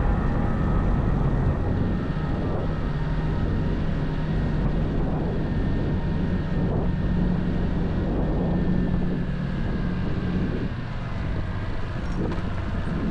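Honda XR190L's single-cylinder engine running under way on the road. The engine note rises a little through the middle, then drops briefly near the end before picking up again.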